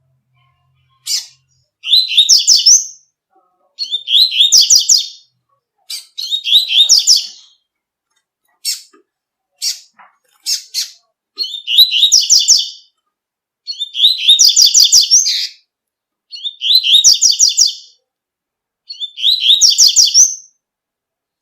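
Double-collared seedeater (coleiro) singing its 'tui-tui' song: seven rapid, high twittering phrases of about a second each, separated by short pauses. A few single sharp chirps fall between phrases, the first about a second in and three more near the middle.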